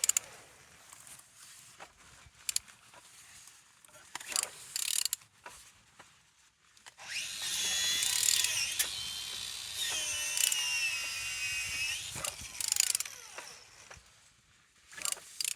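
A ratchet wrench turning a used engine over by hand: scattered clicks of the pawl, then a continuous stretch of turning about halfway through with a wavering high whirr from the rotating engine. It turns freely.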